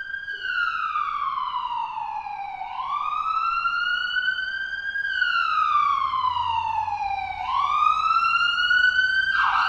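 Electronic wailing siren of a toy fire engine, its pitch sliding slowly up and down, about one full rise and fall every five seconds.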